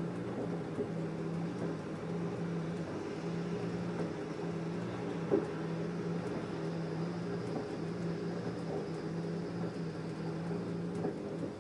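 LG F10A8HDS5 front-loading washing machine turning its drum with a full load of coloured cottons: a steady motor hum with a few light clicks from the load, the sharpest about five seconds in. The hum stops near the end as the drum comes to rest.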